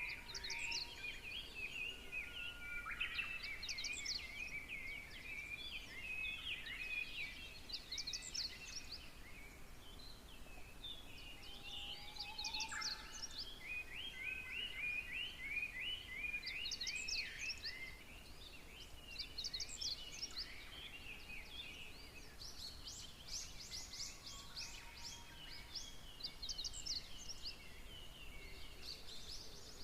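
Several songbirds singing over one another: a steady tangle of chirps and quick trills with no pause.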